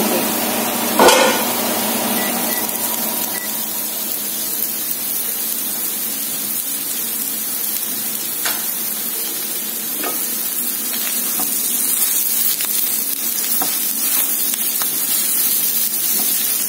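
Okra frying in a pan with a steady sizzle, and a few knocks and scrapes of a spatula stirring it.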